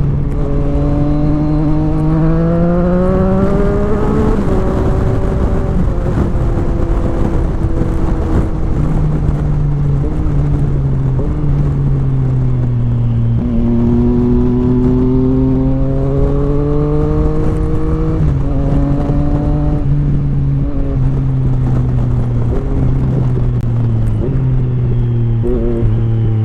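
Motorcycle engine pulling hard twice, its pitch climbing and then dropping at the shift each time, with a steady engine note in between.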